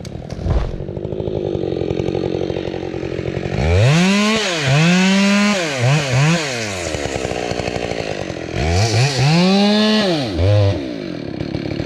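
Chainsaw engine running at a low speed, then revved up to high speed and let back down several times in two spells, before settling back to low speed near the end.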